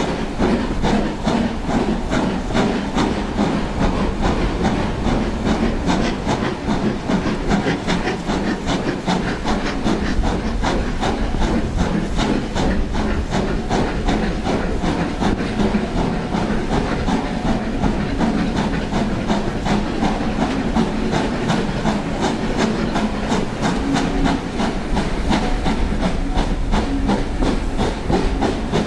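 LMS Black Five two-cylinder 4-6-0 steam locomotive running steadily with a train: a rapid, continuous pattern of exhaust beats and steam hiss mixed with the coaches' wheels running on the rails.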